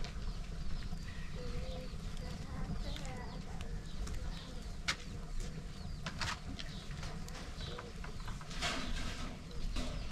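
Small birds chirping on and off over a steady low rumble, with a few sharp clicks in the middle.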